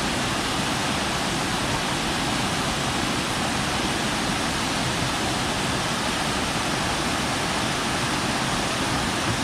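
Waterfall rushing steadily: a dense, even hiss of falling water with no breaks.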